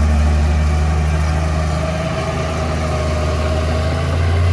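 Heavy diesel engine of earthmoving machinery running steadily with a deep hum, easing off slightly about two seconds in and picking up again near the end.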